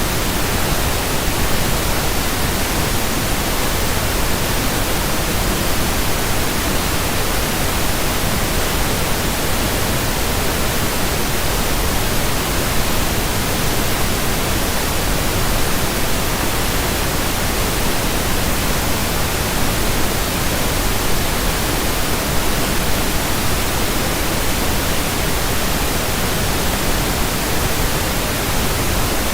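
Steady pink noise: an even, unbroken hiss across all pitches with no changes.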